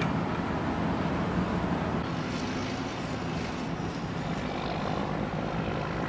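An engine running steadily with a low rumble and hum, and a light hiss rising over it a couple of seconds in.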